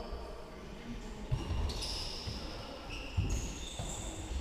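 A football is kicked twice, two dull thuds about two seconds apart, with short high squeaks in between.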